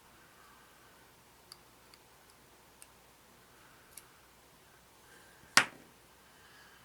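Small clicks and taps of tweezers and tiny plastic and photo-etch model parts being handled on a workbench: a few faint ticks, then one sharp, much louder click about five and a half seconds in.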